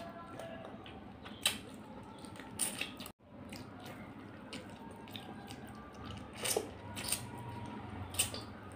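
Close-miked chewing and wet mouth sounds of rice and chicken curry being eaten by hand, with a handful of sharp smacks.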